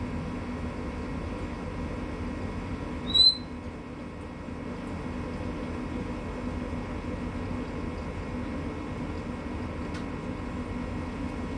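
Young mangrove whistler giving one short, high chirp about three seconds in, an early 'crat crit' call of a fledgling starting to vocalise, over a steady background hum.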